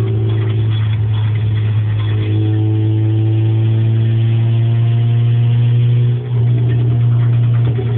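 Fifth-generation Honda Civic four-cylinder engine running with no exhaust fitted: a loud, steady drone that briefly drops about six seconds in.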